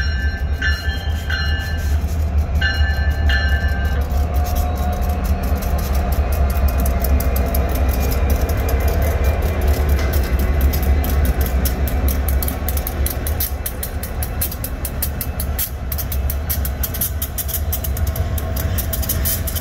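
Terminal Railroad Association EMD SD60 diesel locomotives, each with a 16-cylinder 710 engine, running past with a deep steady engine rumble. A railroad crossing bell dings repeatedly in the first few seconds. The passing freight cars' wheels then click over the rail joints, the clicks coming quicker near the end.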